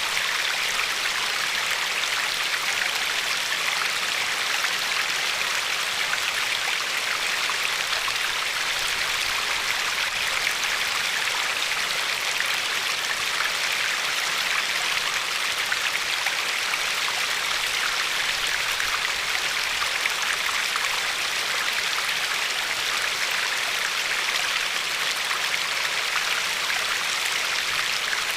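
River water flowing steadily: a continuous, even rushing hiss that does not change.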